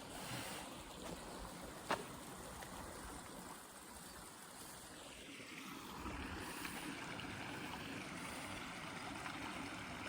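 Faint, steady rush of running water, like a nearby mountain stream, growing a little louder about six seconds in. A single sharp click about two seconds in.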